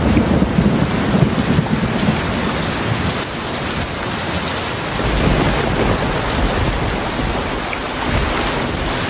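Heavy rain falling steadily, with low rolling thunder rumbling under it at the start and again about halfway through.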